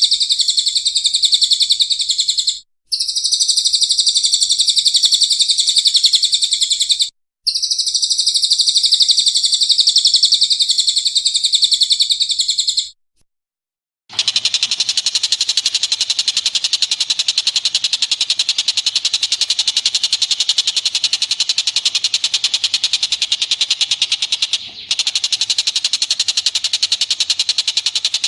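Songbird singing in a dense, high-pitched, unbroken chatter, in three long stretches with brief pauses. About halfway it stops for a second, and a different recording follows with a steadier, more even song.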